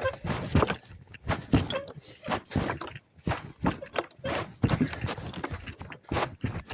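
Irregular knocks, thuds and rustling, a few a second, picked up by a phone microphone carried in a pocket while moving over a rough wooded bike trail.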